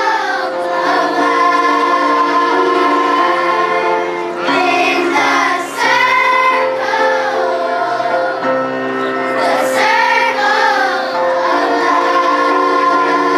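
Children's chorus singing with instrumental accompaniment, the voices gliding over steady held chords.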